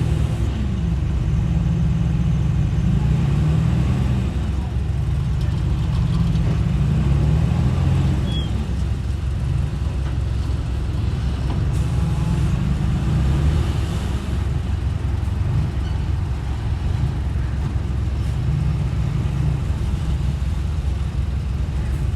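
Heavy construction machine's diesel engine running steadily, its pitch rising and falling several times as it works.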